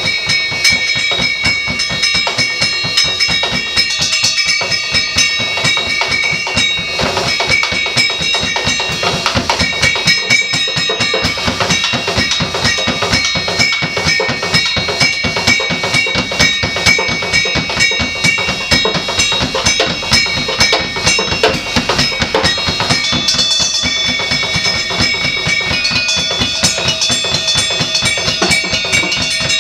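Drum kit played in a dense, rapid stream of hits as improvised percussion, with several high ringing tones held over the drumming.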